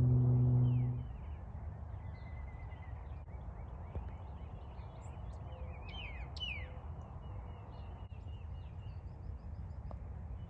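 Outdoor ambience: scattered short, downward-sliding bird chirps and a brief trill over a low steady rumble. A steady low tone ends about a second in.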